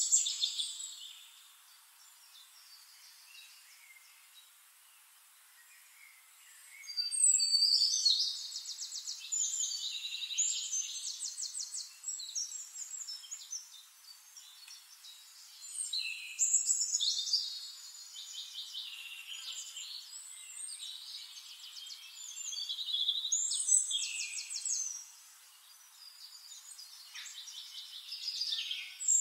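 Birds singing: bouts of rapid, high trilling notes a few seconds long, about four in all, with quieter gaps between.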